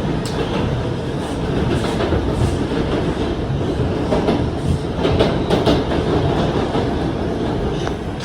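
R142 subway train heard from on board, running through the tunnel: a steady rumble of wheels and motors, with a few sharp clicks of the wheels over the rail joints about halfway through.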